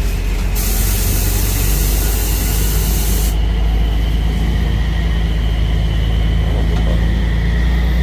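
Deuce-and-a-half military truck's engine running steadily under load. A loud hiss cuts in about half a second in and stops abruptly about three seconds in.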